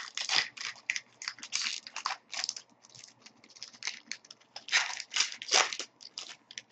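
Hockey card pack wrapper crinkling and tearing as a pack is opened and its cards handled: a quick run of crackles with two louder rips about five seconds in.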